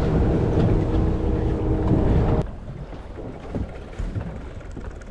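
Fishing boat engine and wind on the microphone, a loud low rumble with a faint steady hum, dropping suddenly about two and a half seconds in to a quieter wind and water hiss.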